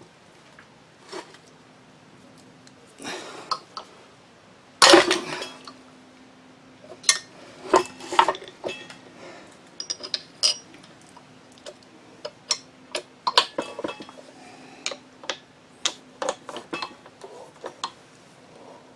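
Hand tools clinking and knocking irregularly against the metal parts of a drill grinder's motor as a stubborn nut is worked loose with a punch and screwdriver. The loudest knock comes about five seconds in, and a faint steady hum runs underneath.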